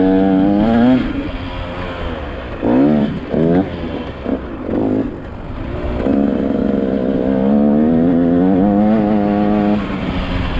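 A 125cc two-stroke motocross bike's engine being ridden: several short throttle bursts, each rising and falling in pitch, in the middle, then the throttle held for a few seconds with the pitch slowly climbing before it eases off near the end.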